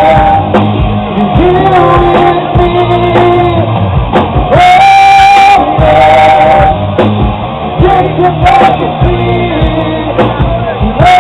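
Live rock band playing: a vocal line with long held notes that step up and down over bass and drums, with regular drum hits.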